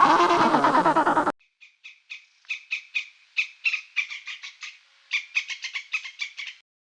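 Animal calls: about a second of a loud, dense chorus of overlapping calls that cuts off abruptly, then a rapid series of short, high chirps, several a second, coming in bunches.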